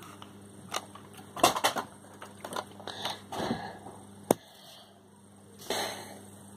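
Irregular clicks and knocks of objects being handled, with one sharp click about four seconds in and a short rustling burst near the end.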